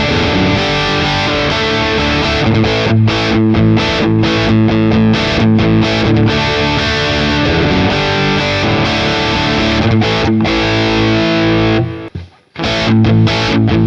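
Distorted electric guitar riff played on a Charvel with a Seymour Duncan bridge humbucker, with chugging low notes and chords. The playing breaks off for about half a second near the end, then starts again.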